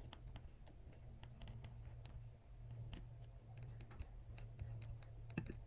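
Faint, irregular clicks of computer keyboard typing, over a low steady hum.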